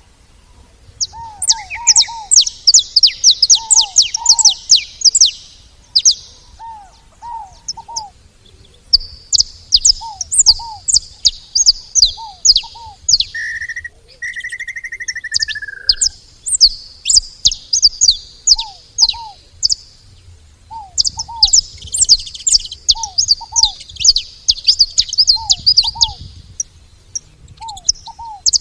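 Saffron finches calling: bursts of rapid, high chips and trills. Underneath, a lower two-note call repeats every second or two, and a brief falling whistle comes about halfway through.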